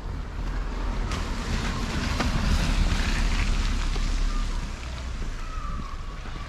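A vehicle passing on the street, its noise swelling about a second in, at its loudest near the middle, then fading.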